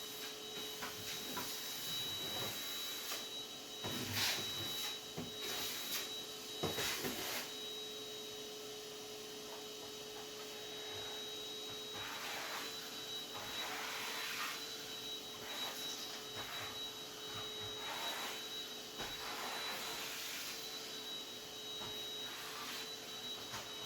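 Vacuum cleaner running with a steady high motor whine, with rushing surges of suction noise as it is pushed back and forth and a few sharp knocks about four to seven seconds in.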